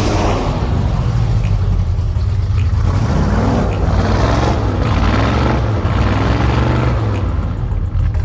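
Chevrolet 396 big-block V8 in a 1975 GMC Custom pickup running steadily, with a low rumble and recurring surges in level.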